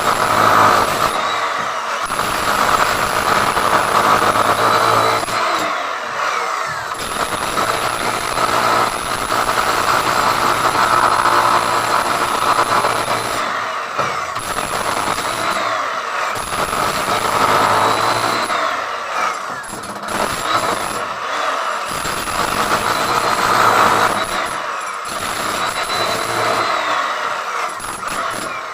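Power wall cutter or angle grinder cutting a groove (chase) into a masonry wall for pipes, running loud and steady with brief dips every few seconds as the cut eases off.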